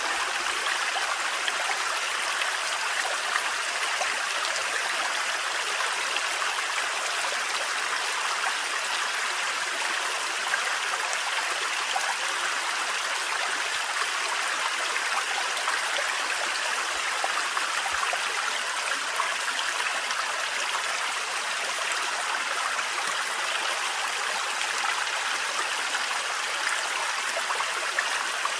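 Thin forest waterfall running steadily: an even, unbroken rush of falling and splashing water, bright and hissing, with little low rumble.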